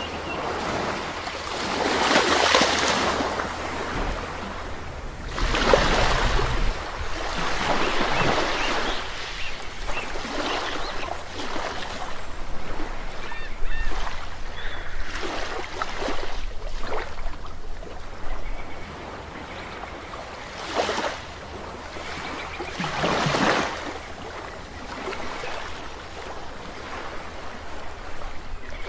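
Sea waves washing onto the shore in repeated surges, each swelling and fading over a few seconds.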